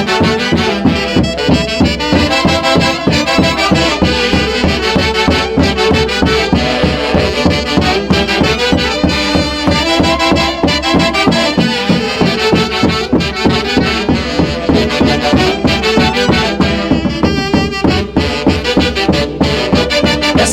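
Andean tropical dance orchestra playing live, an instrumental passage led by brass over a steady, driving beat.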